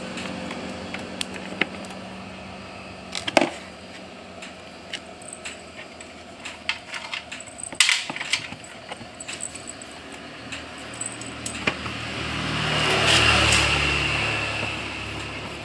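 Small metal parts and tools clinking and knocking in scattered clicks while electric-bicycle parts are fitted, with two sharper knocks in the first half. Near the end a broad swell of noise, like a vehicle passing, rises and fades over a few seconds.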